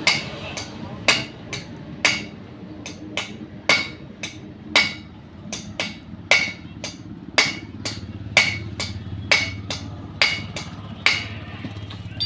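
Hammer striking metal repeatedly: about one heavy blow a second with lighter taps between, each with a short metallic ring. A low steady hum comes in near the end.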